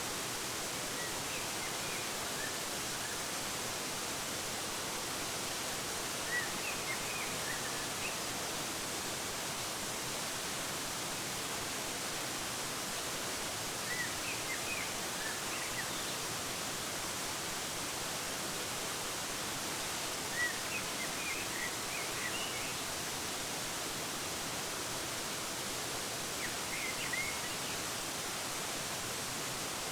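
Waterfall's steady rushing water, with a few small groups of short, high bird chirps on top, five times over.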